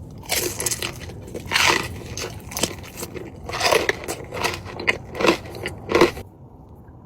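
Crispy hot-chicken breading crunching loudly in a series of irregular bites and chews, the sound stopping shortly before the end.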